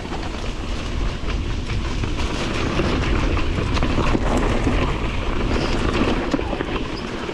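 Wind rumbling on the microphone and a bike's continual rattle and clatter as it bumps downhill over a rough, slick trail.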